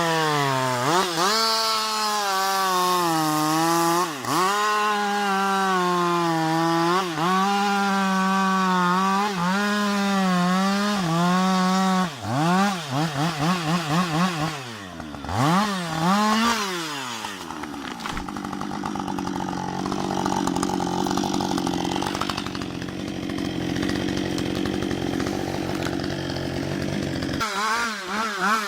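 Husqvarna 560 XP two-stroke chainsaw running at full throttle while cutting into a tree trunk, its pitch dipping briefly again and again under load. About twelve seconds in it is revved in a run of quick blips, then it settles into a lower, rougher steady run for about ten seconds before its pitch rises again near the end.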